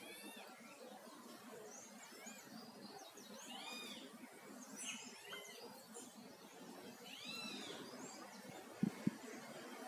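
Wild birds calling: short arched chirps repeated every second or so over a faint outdoor background, with two brief low thumps close together near the end.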